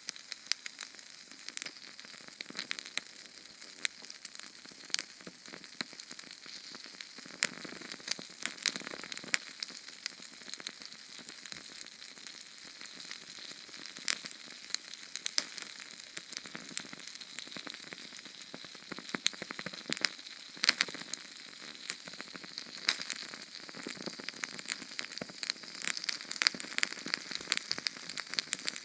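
Small Sterno canned-fuel flame burning: a steady hiss with frequent sharp crackles and pops.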